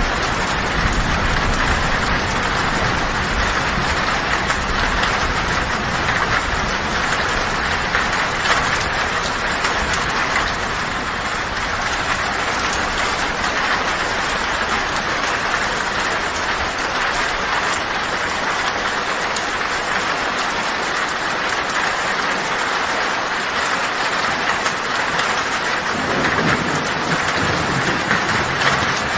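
Heavy rain falling on a tin roof, a steady dense hiss. Low thunder rumbles under it at the start, fades away, and rumbles again near the end.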